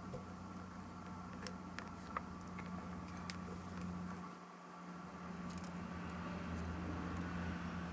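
Small scattered clicks and taps of tiny parts and tools being handled during a compact camera's disassembly, over a steady low electrical hum.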